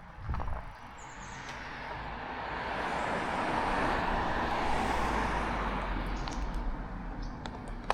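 A motor vehicle passing on the road, its noise swelling to a peak about four seconds in and then fading away.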